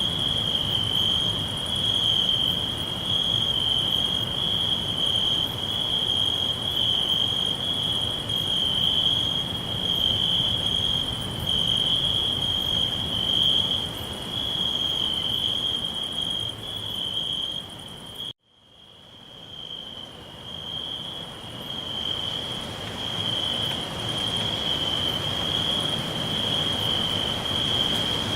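Crickets chirping in a steady, high-pitched, pulsing chorus over a faint low background hum. About two-thirds of the way through, the whole sound cuts out abruptly and then fades back in over a few seconds, like the join of a looped recording.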